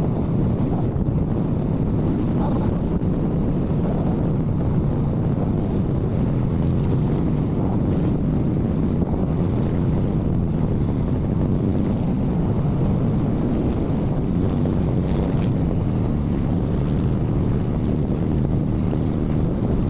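Steady wind rush on the microphone over the running of a motorcycle underway at speed.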